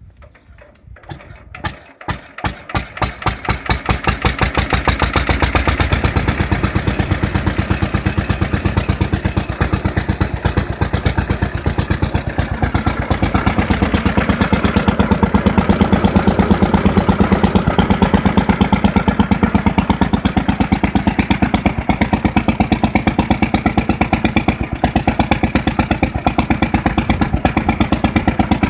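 Bernard R3 stationary petrol engine starting: a few slow, uneven firing strokes at first, then picking up speed over the first few seconds and settling by about five seconds in to a steady, even running beat.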